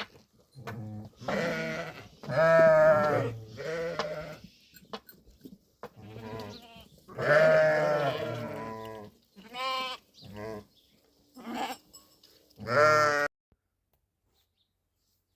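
Sheep bleating, about nine wavering, quavering calls one after another, some loud and close. The sound cuts off abruptly near the end.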